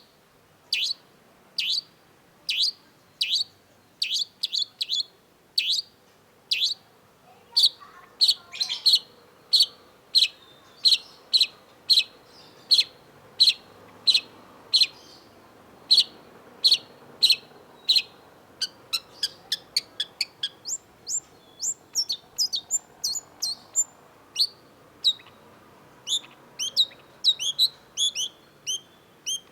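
Long-tailed shrike calling: a long series of short, separate notes at about one to two a second, which turns into a quicker run of higher notes about two-thirds of the way through.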